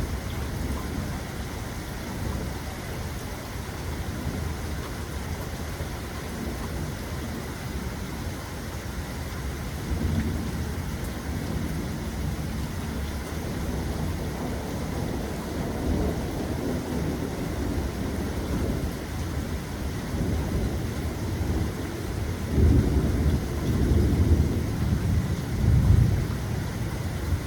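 Steady rain with rolling thunder rumbling low underneath. The thunder swells a few times and grows louder and longer in the last few seconds.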